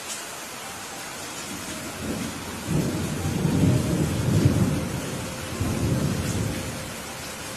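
Steady rain falling, with a roll of thunder rumbling in about two seconds in, swelling to its loudest past the middle and dying away near the end.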